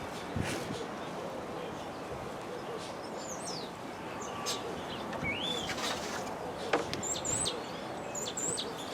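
Birds chirping over steady background noise: scattered short calls, a whistle that rises and falls about five seconds in, then repeated high chirps, with a few light clicks.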